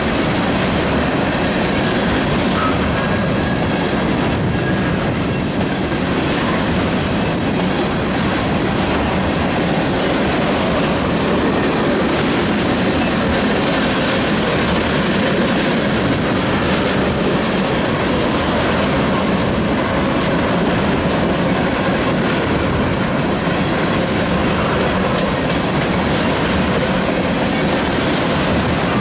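Freight train of rail tank cars rolling past: a steady, loud rumble and rattle of steel wheels running on the rails.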